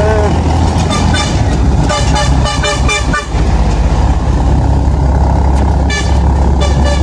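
A motor vehicle's engine running steadily, with clusters of quick horn toots from about a second in to three seconds, and again near the end.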